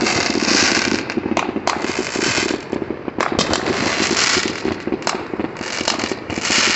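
Dense fireworks barrage: continuous crackling of many firecrackers and fireworks going off at once, with several sharper bangs standing out and a brief lull about three seconds in.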